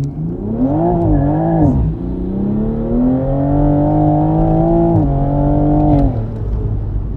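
Toyota GR Supra A90's engine pulling hard through the gears. Its pitch climbs and wavers, drops sharply at a gear change about two seconds in, then climbs steadily again. It drops at another shift around five seconds and falls away about six seconds in, leaving a low rumble.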